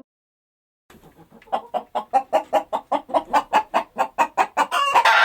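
Chicken clucking in quick, even pulses, about five a second, starting about a second in, with a louder, longer squawk near the end.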